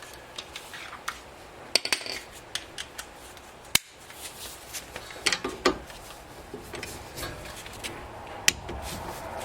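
A wrench and metal parts clicking and clinking while the brake caliper bolts are torqued, with scattered light clicks and two sharp ones, about four seconds in and near the end.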